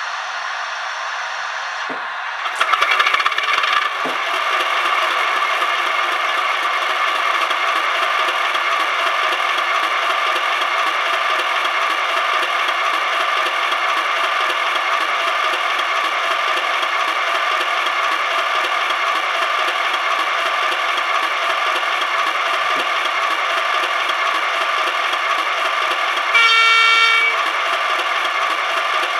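Sound decoder in a DCC sound-fitted OO gauge model diesel locomotive playing a steady diesel engine sound through its small speaker, getting louder a couple of seconds in. Near the end comes one short horn blast, under a second long.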